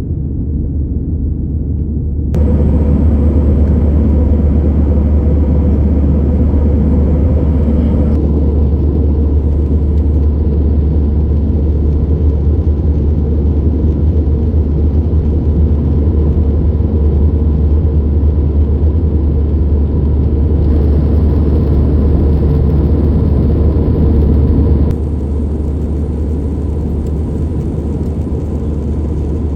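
Steady low rumble of an Airbus A320's engines and airflow heard from inside the passenger cabin in flight. It gets louder about two seconds in and drops back somewhat near the end.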